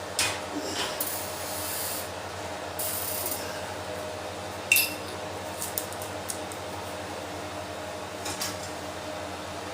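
A dish going into an oven: scraping and rubbing noises in the first few seconds, then a sharp metallic clink about five seconds in and a few lighter clicks, over a steady hum.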